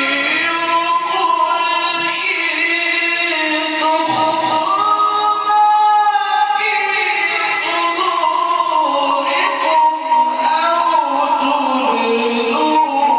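A male Quran reciter's voice in melodic tajwid recitation, drawing out long, ornamented notes that slide and waver in pitch.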